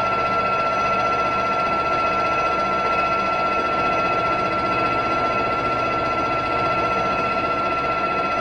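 Metal lathe running steadily while turning a small steel washer, giving a constant high-pitched whine with no change in speed.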